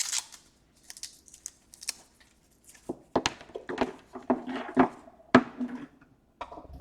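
Hands handling a laptop and its parts on a workbench: scattered clicks, knocks and rustling, with two sharper knocks about three seconds in and again a couple of seconds later.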